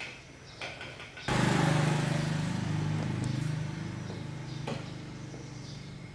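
A motor starts abruptly about a second in and runs with a steady low hum, slowly fading.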